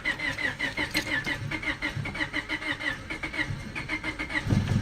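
A 1999 Honda Civic LX's 1.6-litre four-cylinder being cranked by the starter, turning over in even, rapid pulses of about five a second without starting. There is a louder low surge near the end.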